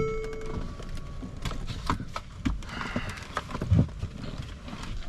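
Footsteps on a hard surface, an irregular run of knocks and clicks.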